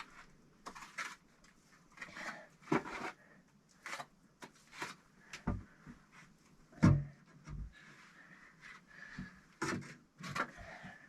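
Irregular knocks, clunks and scrapes of bricks and tools being handled while a brick stove is laid in a small earth-walled room, with one heavier thump about seven seconds in.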